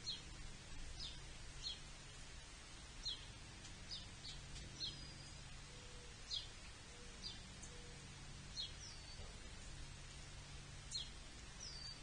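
A small songbird giving short, sharp, falling chip notes, about a dozen, roughly one a second, over a faint steady low hum.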